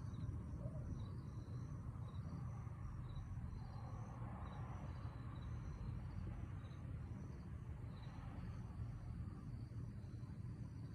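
Crickets chirping at dusk: short, irregularly repeated chirps at two pitches, over a faint steady low rumble.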